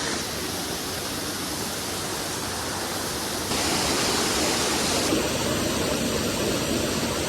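Steady rush of a waterfall's falling water, even and unbroken, growing slightly louder and brighter about three and a half seconds in.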